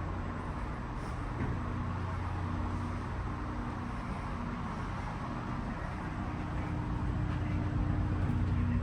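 Steady low hum of a standing passenger rail car's ventilation and electrical systems, with a few steady low tones under an even rush, growing a little louder near the end.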